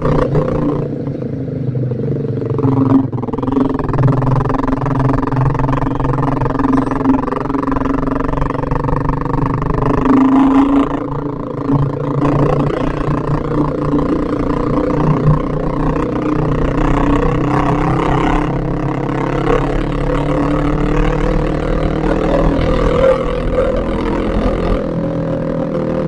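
Yamaha Vixion's single-cylinder four-stroke engine running under way, its pitch shifting a little as the throttle changes, with road and wind noise from the ride.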